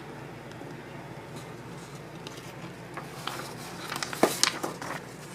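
Paper rustling and crinkling as an instruction booklet is handled and its pages turned, with a cluster of sharp crinkles in the second half over faint steady room hum.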